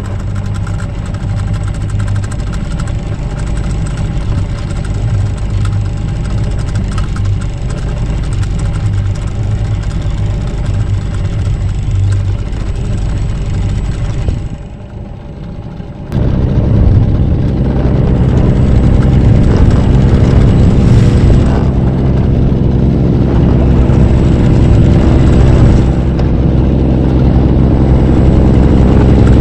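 Mercury 9.8 hp outboard motor running the mini boat under way, a steady engine drone. About halfway through it drops away for a moment, then comes back louder and fuller.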